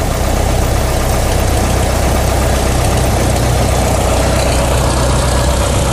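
Cessna 172's piston engine and propeller droning steadily, heard inside the cabin with a haze of airflow noise.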